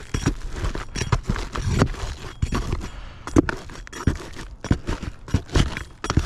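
Brittle asphalt roof shingle being worked loose and pulled out by hand from under the course above, with irregular scraping, crackling and sharp knocks.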